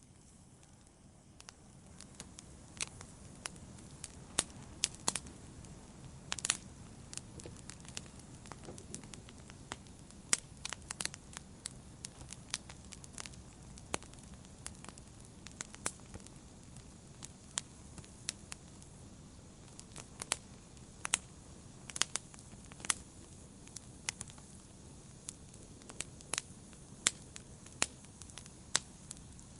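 Wood campfire burning, a steady low rush under frequent sharp crackles and pops at irregular intervals.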